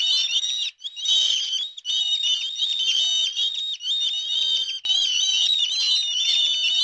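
Many small animals calling at once: a dense chorus of overlapping high-pitched cries with a few brief breaks, and fainter lower calls beneath.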